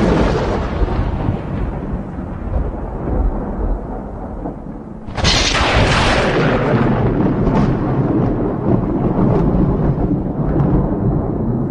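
Thunder: one crash is dying away at the start, and a second sharp crack about five seconds in rolls on into long, deep rumbling.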